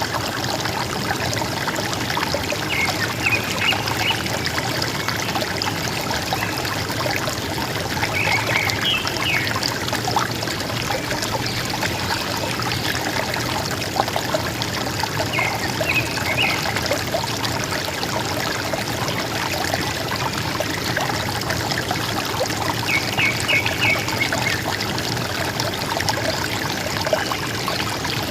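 River water flowing steadily over stones, a continuous gurgling rush. A forest bird calls a short burst of a few quick high notes four times, several seconds apart.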